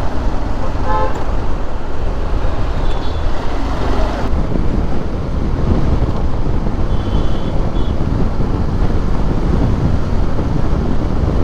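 Wind and road noise from riding a motorcycle in city traffic, a loud steady rush, with a few short horn toots: one about a second in, and brief high beeps around three and seven seconds in.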